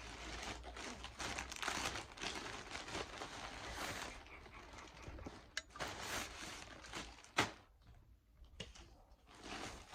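Plastic packaging rustling and crinkling as items are handled and taken out of a parcel, with a few sharp clicks or taps about halfway through and a brief lull before the rustling resumes near the end.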